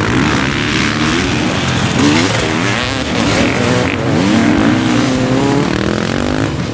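Motorcycle engines revving, the pitch rising and falling several times in quick succession.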